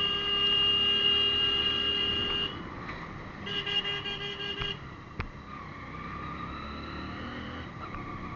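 A vehicle horn sounding two blasts: one long, then a shorter one about a second after it stops. A fainter steady drone follows.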